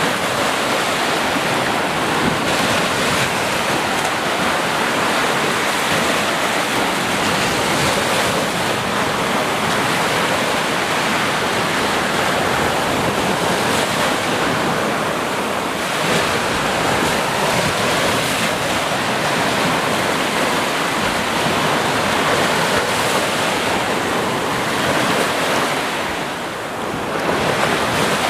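Sea surf: waves breaking in a steady, dense wash of noise that swells and eases slightly, dipping briefly near the end before coming back up.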